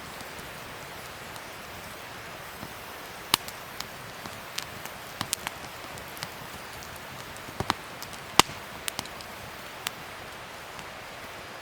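Wood fire burning with a steady hiss and scattered sharp crackles and pops, the crackles bunched in the middle and the loudest pop a little after eight seconds in.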